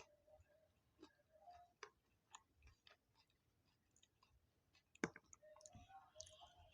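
Faint close-miked eating sounds: scattered small clicks and wet mouth noises of chewing, with one sharper click about five seconds in.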